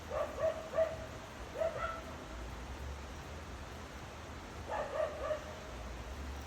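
A dog barking and yipping in short runs of a few barks: one run at the start, another about a second and a half in, and a third near the end.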